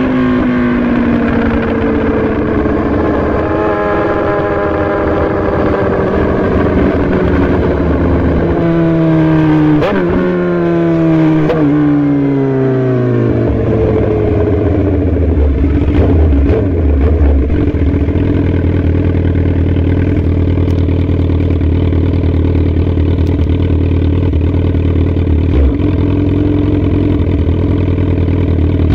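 Sport motorcycle engine winding down as the bike slows, its note falling in several steps like downshifts over the first dozen seconds. It then settles into a steady low running note, close to idle.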